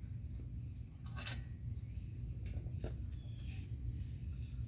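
A steady, unbroken high-pitched insect trill over a low background rumble, with a few faint clicks from exhaust pipe parts being handled.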